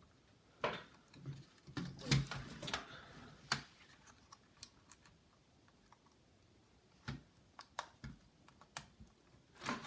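Irregular small plastic clicks and taps from handling laptop parts while trying to seat a stiff internal cable connector, busiest in the first few seconds, then a few scattered ticks.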